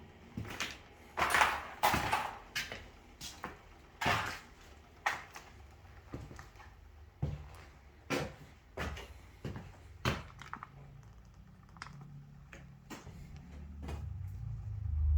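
A series of irregular clicks and knocks from hands at work, the loudest about one to two seconds in, with a low rumble rising near the end.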